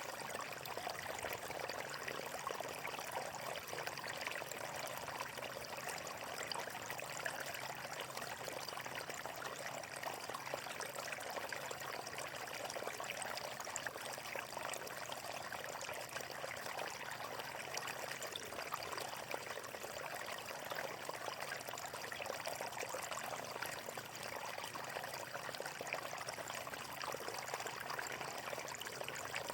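Water flowing steadily in a small stream: a continuous trickling, pouring rush with no change in level.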